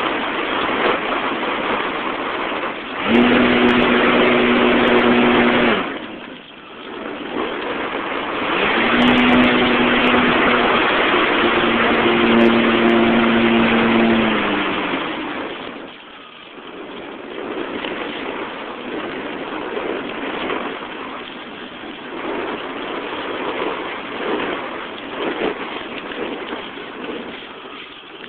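Motor and propeller of a remote-controlled model airplane heard from a phone strapped under it, over heavy wind rush on the phone's microphone. The motor's steady hum comes in about three seconds in and again at about nine seconds, then drops in pitch and fades around fourteen seconds, leaving a quieter wind rush.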